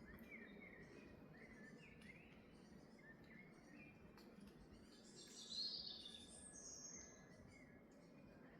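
Faint forest birdsong: a bird repeats short chirps throughout, and a louder, higher twittering comes in about five seconds in and fades out around seven seconds, over a low steady background hiss.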